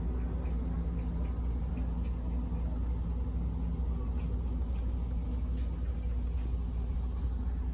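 Car ferry's engines droning steadily, a constant low rumble with a steady hum, heard on board.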